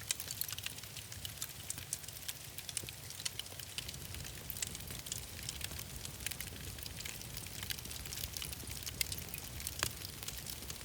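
Wood fire in a fireplace crackling, with many irregular sharp pops and snaps over a low steady rumble.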